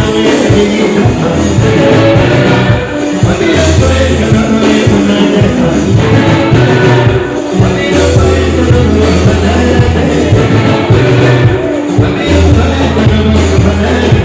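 Live band music with a steady beat and a heavy, sustained bass line, with some singing over it.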